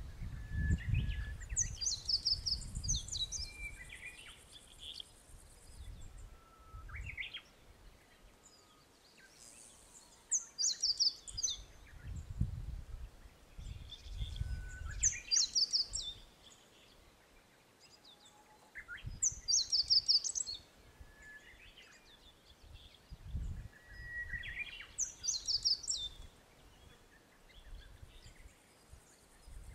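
A songbird singing short phrases of quick high notes, some opening with a lower whistle, repeated every four to five seconds. Wind rumbles on the microphone in gusts now and then.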